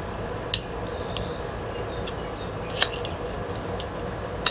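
Three short, sharp metal clinks as ceiling fan parts are handled and set down, over a faint steady hum.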